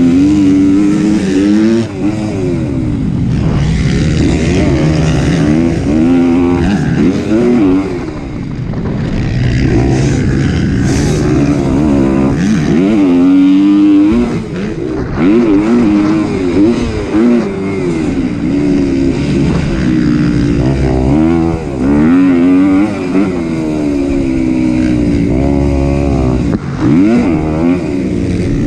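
Kawasaki KX250's single-cylinder four-stroke engine under race load, revving up and falling back over and over as the throttle is opened and rolled off.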